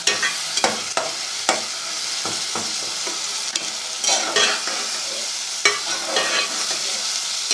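Sliced onions and tomatoes sizzling in hot oil in a metal pot, stirred with a metal spoon that scrapes and knocks against the pot at irregular moments.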